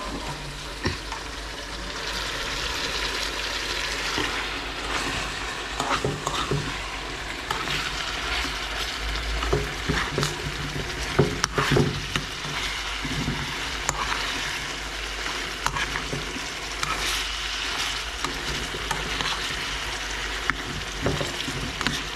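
Pieces of lamb frying in a pan with their juices, a steady sizzle, while a metal spoon stirs them, knocking and scraping against the pan several times.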